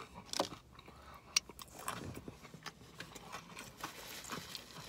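A person chewing food close to the microphone: scattered, irregular soft wet clicks and smacks from the mouth.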